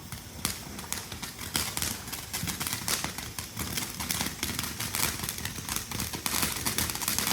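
Small firework crackling and sputtering: a rapid, irregular run of sharp pops and snaps that grows denser toward the end.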